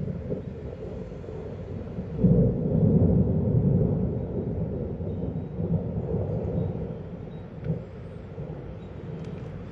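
Thunder: a low rolling rumble that breaks in about two seconds in, peaks, then dies away slowly over several seconds.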